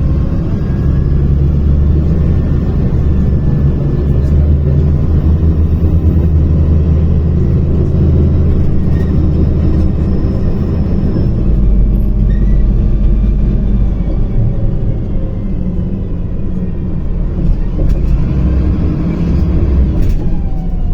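MAZ-105 articulated city bus driving, heard from inside the cabin: its diesel engine and running gear give a steady low rumble that eases a little about two-thirds of the way through and then builds again.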